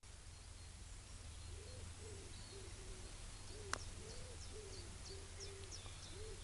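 A pigeon cooing in a repeated rhythmic phrase of low, soft coos. There are faint high chirps of small birds, and one sharp click a little before four seconds in.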